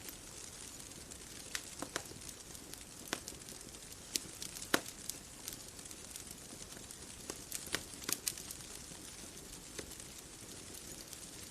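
Bonfire crackling: irregular sharp pops and snaps, a few louder ones among many small ones, over a soft steady hiss.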